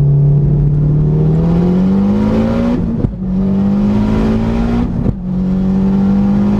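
Mitsubishi Evo X's turbocharged 2.0-litre four-cylinder, built to over 500 hp, accelerating hard as heard from inside the cabin. The engine note climbs in pitch, breaks and drops for quick upshifts about three and five seconds in, then climbs again.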